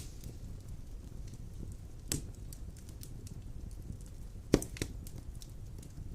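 Wood fire burning in a stone fireplace: a low steady rumble of the flames with scattered crackles and a few sharp pops of the burning logs, about two and four and a half seconds in.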